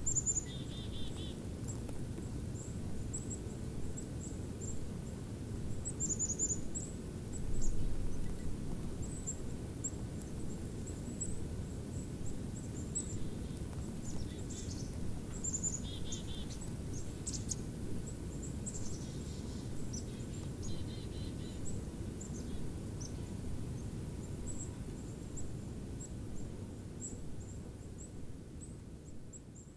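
Small birds giving many very high, thin chirps and a few short, buzzy trills, over a steady low rumble. The sound fades out near the end.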